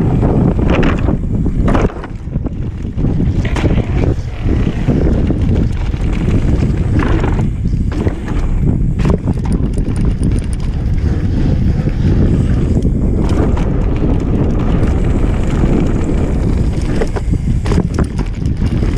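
Mountain bike riding a dirt trail: wind rumbling on the microphone of the on-board camera, tyres rolling over the ground, and the bike knocking and rattling over bumps.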